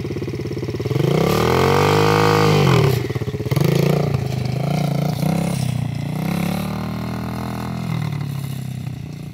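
125cc dirt bike engine running: it idles evenly, is revved up and back down over about two seconds, then runs at wavering revs as the bike moves off in first gear.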